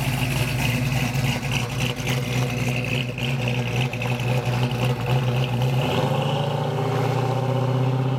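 Straight-piped exhaust of a 1999 BMW E36 M3's 3.2-litre inline-six, running with a steady, loud note. About six seconds in, the deep rumble drops out and the note turns smoother, climbing slowly.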